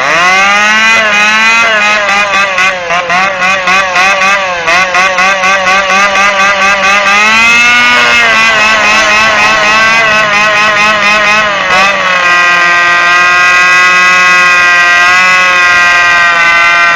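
Radio-controlled power boat's motor running at high revs, its buzzing pitch climbing sharply at the start and then wavering up and down. For a few seconds early on the sound pulses rapidly, several times a second, before settling into a steady high-pitched drone for the last several seconds.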